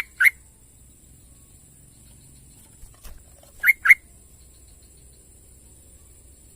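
Yellow-vented bulbul calling: a quick pair of short, bright whistled notes, then the same pair again about three and a half seconds later.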